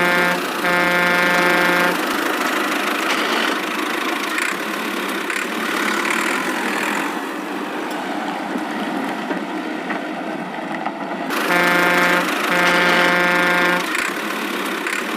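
Cartoon vehicle horn honking twice, a short blast then a longer one, over a steady engine-like running noise. The same double honk comes again about twelve seconds in.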